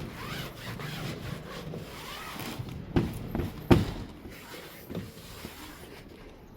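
A few sharp knocks and thumps over a steady low rumble. The loudest comes nearly four seconds in.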